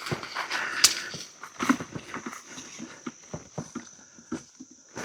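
Footsteps crunching and brushing along a grassy, stony mountain trail, irregular steps with a sharper crack about a second in. A steady high-pitched insect drone sounds behind them.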